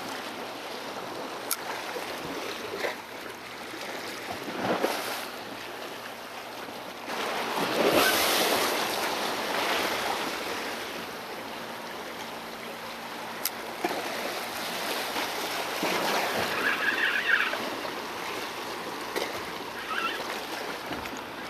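Sea waves washing and surging against shoreline rocks, rising to a larger surge about eight seconds in and again later, with a few brief clicks.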